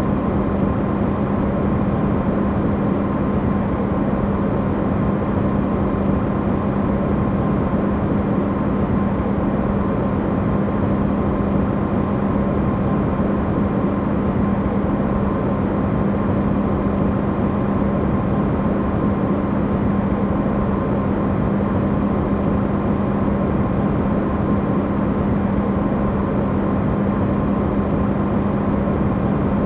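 Electrolux refrigerator running, recorded amplified: a steady, even noise with a constant low hum and a fainter higher steady tone, unchanging throughout.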